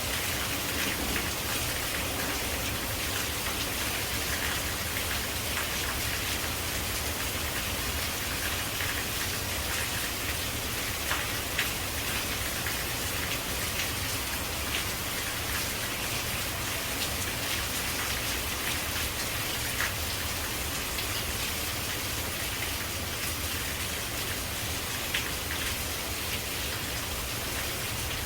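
Steady rain falling on leaves, a continuous even hiss with a few sharper drop hits standing out now and then.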